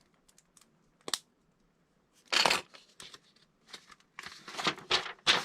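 Hands sorting through loose plastic LEGO pieces: short clicks and scraping rustles, with the loudest rustle about two and a half seconds in.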